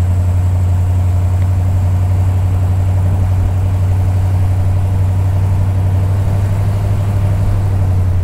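1956 Ford Thunderbird's 312 V8 with dual exhaust running steadily while the car drives along, heard from inside the open car as an even low engine drone with no revving.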